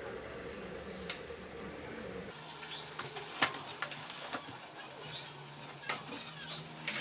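Light clicks and knocks of food and utensils being handled in a kitchen over a steady low hum. The hum changes about two seconds in, and the clicks grow more frequent after that.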